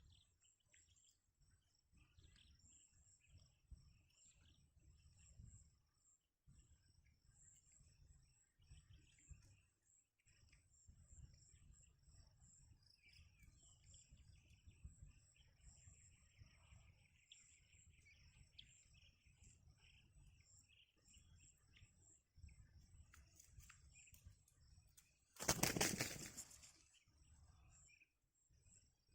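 A bird's wings flapping: a brief loud whoosh near the end, over faint high chirps and a faint low rumble.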